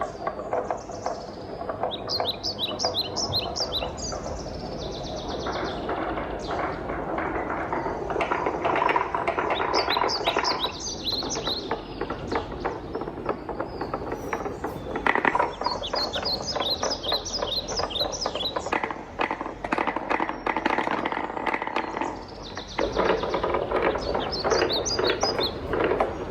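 Wooden balls rolling and clattering down a wooden marble-run track: a steady rolling rumble thick with small knocks, swelling and easing every few seconds, with repeated runs of rapid high clicking.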